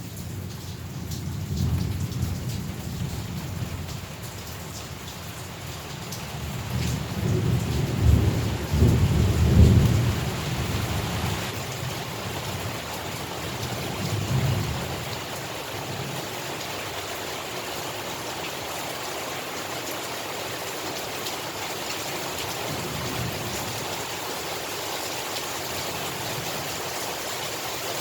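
Heavy rain falling steadily with rolling thunder: a low rumble swells a couple of seconds in, a bigger peal builds to its loudest about ten seconds in, and a smaller rumble follows a few seconds later before only the rain remains.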